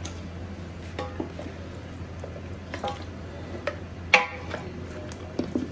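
Wooden spatula stirring trotters in a large aluminium pot, with several knocks against the pot's side that ring briefly; the loudest comes about four seconds in. Under it runs a steady low hum and a faint sizzle of the trotters frying in oil.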